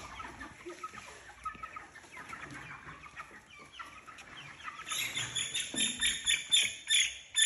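Young Cornish cross meat chickens cheeping and clucking, faint at first, then a quick run of loud, high-pitched cheeps from about five seconds in as the birds are caught and handled.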